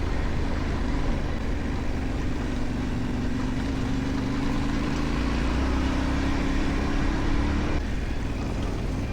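Yamaha Ténéré 700's parallel-twin engine running as the motorcycle is ridden along a dirt track, its note climbing slowly and then dropping suddenly about eight seconds in.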